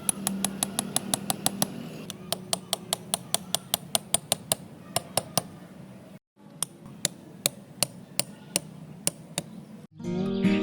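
Small hammer tapping on wood in quick, even strokes, about five taps a second, with a short break about six seconds in before the tapping resumes.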